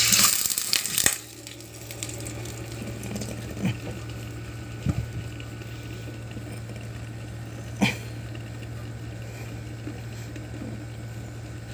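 Sardine-and-egg mixture poured into hot oil in an electric pan: a loud sizzle for about the first second, then a quieter steady sizzling with a few light knocks.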